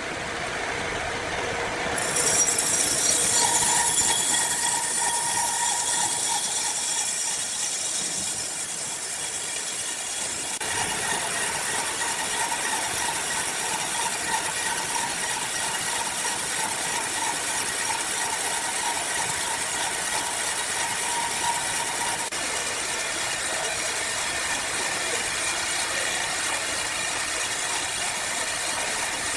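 Sawmill machinery running steadily as an oak log is milled: a continuous mechanical noise with a hiss and a held whine. It grows louder about two seconds in.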